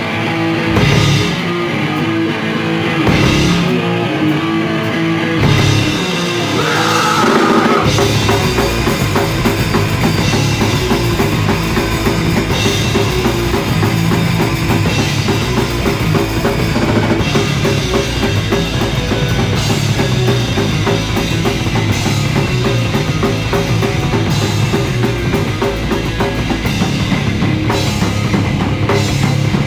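Live heavy rock band, with electric guitar, bass and drum kit, starting a song: a few separate hits with gaps between them for about the first six seconds, then the full band playing continuously. Recorded on a phone's microphone.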